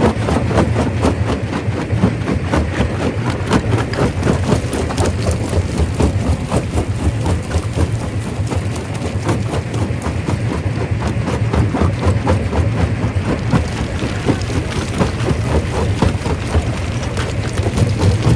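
Primary rock crusher running under load: a steady low machine hum with rocks continually cracking and knocking as they are broken.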